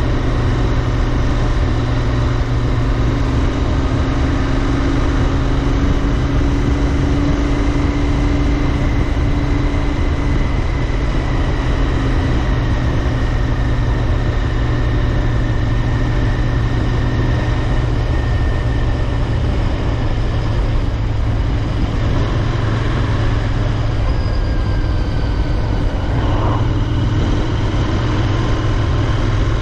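Royal Enfield Interceptor 650's 648 cc parallel-twin engine running at a steady cruise, its note holding almost constant, with road and wind rush behind it.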